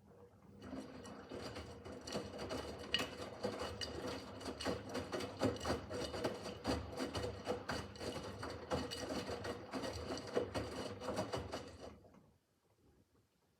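Miele W5801 WPS washing machine drum turning during the wash phase, laundry tumbling and rubbing with a steady motor hum. It starts at the beginning, builds over the first second or two and stops abruptly after about twelve seconds, the drum's pause between turns.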